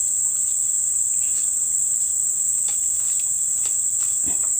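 Steady, high-pitched drone of an insect chorus, with a few faint ticks and taps over it.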